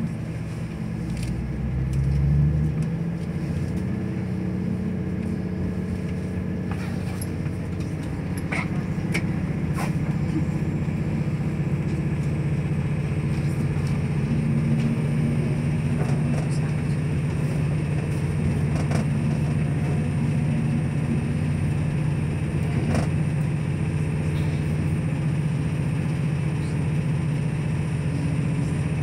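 Diesel passenger train heard from inside the carriage while underway: a steady low engine and running drone that rises briefly in pitch about a second in, with a few faint clicks now and then.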